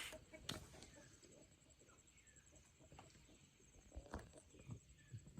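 Near silence: faint outdoor ambience with a few soft, scattered knocks and faint short bird chirps.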